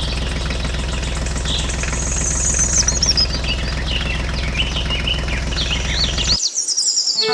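A small motor running steadily with a fast, even pulse, then cutting off suddenly about six seconds in. Birds chirp over it throughout.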